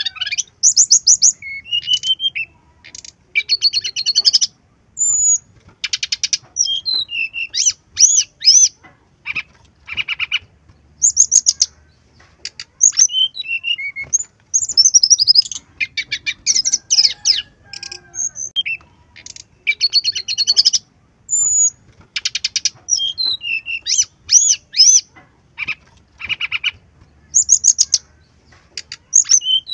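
Brown-chested jungle flycatcher singing a fast, varied song of high trills, rattles and short whistled notes in quick bursts with brief pauses between them. This is a lure song meant to get other birds of the same kind to sing.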